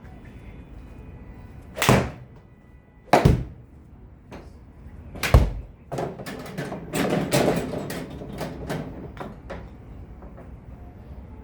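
Three sharp impacts, the first two about a second apart and the third about two seconds later, followed by a run of lighter clicks and knocks.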